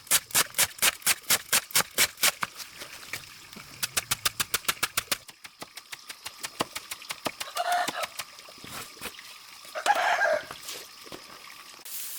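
A fast, even run of sharp clicks or knocks, about four a second, that grows faint and sparse about five seconds in, followed by two short chicken calls near the middle and end.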